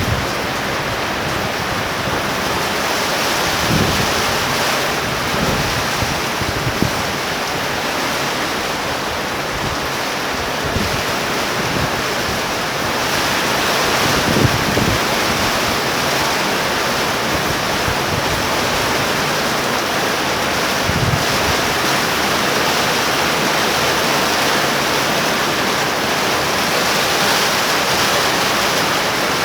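Torrential rain pouring down in a steady, dense hiss, growing slightly heavier about halfway through.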